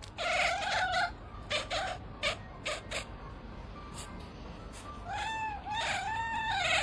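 A cat meowing repeatedly: a long meow at the start, a few short ones around two to three seconds in, and a run of arched meows near the end.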